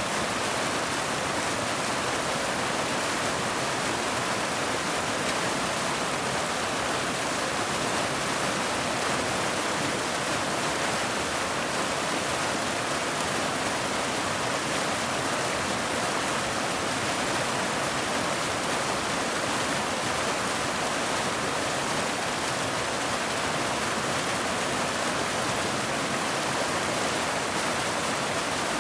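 Steady, even rain, a constant hiss with no separate drops or changes.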